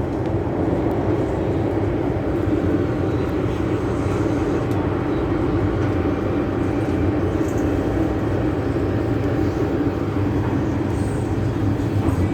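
Steady rumble and hum inside an MTR M-Train electric multiple unit carriage, with a faint steady whine joining about two seconds in.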